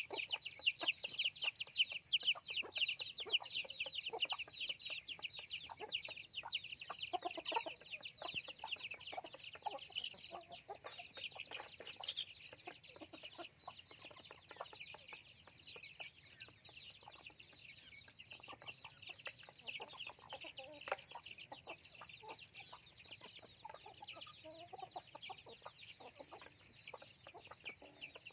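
A flock of chickens: many chicks cheeping in a dense, continuous chorus of short high calls, with scattered lower clucks among them. The chorus is loudest for the first ten seconds or so, then softer.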